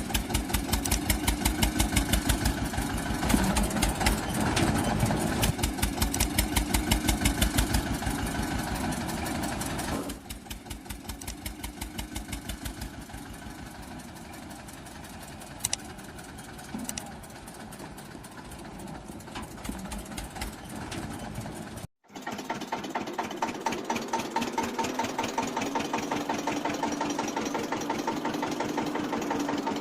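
Eicher 242 tractor's two-cylinder diesel engine running with a steady, even beat. It is louder for the first ten seconds or so and quieter after that, with a brief break about two-thirds of the way through.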